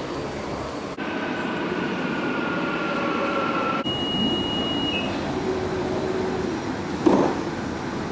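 A vehicle riding along: a steady rumble with a faint whining tone, broken by abrupt cuts about one and four seconds in, and a brief louder sound near the end.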